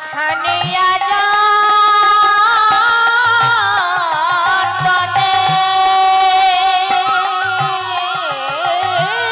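Bengali kirtan music: a long-held melodic line with wavering, gliding ornaments over regular low hand-drum strokes.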